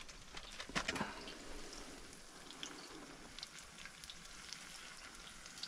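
Breaded pike fillets frying in oil in a cast-iron skillet: a faint, steady sizzle with light crackling pops, and a few sharper clicks about a second in.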